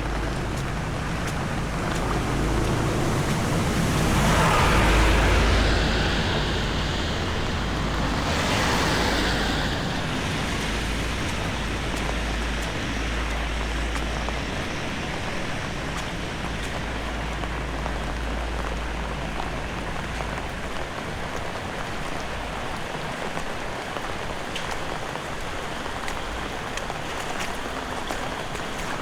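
Steady rain hiss, with a low rumble underneath and two louder swells of hiss about four and eight seconds in.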